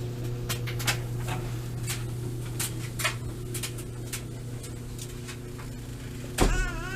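Steady low hum of a running machine, with scattered light clicks and knocks of things being handled. Near the end comes a sharp thump, then a short wavering vocal sound.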